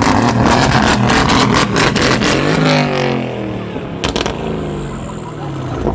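A car engine running loud at high revs, with sharp crackles and pops from the exhaust over the first two seconds or so. After that the engine note falls steadily in pitch as the revs die away.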